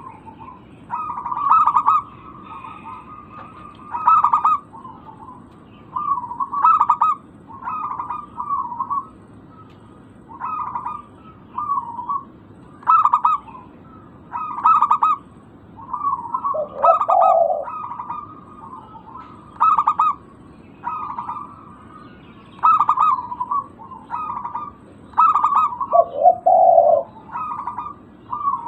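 Zebra dove (perkutut) song: short, staccato cooing phrases repeated every one to two seconds. A lower, shorter call comes in twice.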